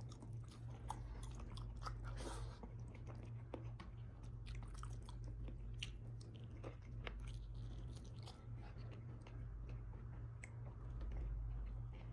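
Close-miked chewing of a mouthful of braised beef rib meat eaten by hand: wet mouth clicks and smacks come thick and fast, over a steady low hum.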